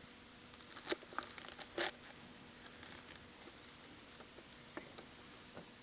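Plastic packaging of frozen udon being crinkled and torn open, in a short cluster of sharp crackles about half a second to two seconds in, then a few faint ticks.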